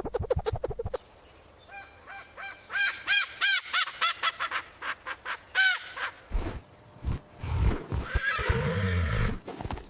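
Horse whinnying: a run of quick, wavering high calls, followed by lower, rougher sounds.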